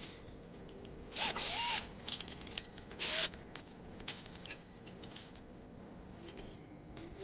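Tool work on a workbench: two short rasping bursts, the first about half a second long just over a second in and a shorter one around three seconds in, with small clicks and taps between them.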